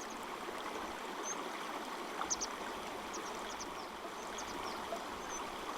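Small stream running steadily, with scattered short, high chirps over the flow.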